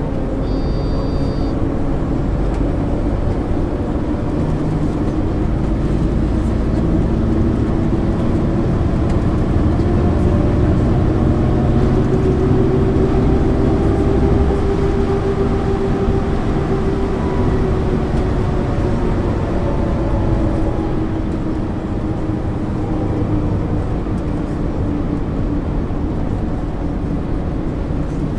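1999 MAN ÜL 353 bus engine running while the bus drives, heard on board; its pitch climbs over the middle stretch and then falls away. A brief high beep sounds about a second in.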